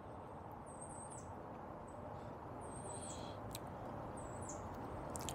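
Faint chirps of a wild bird: short, high calls that come every second or two over a quiet steady background. A single light click sounds about three and a half seconds in.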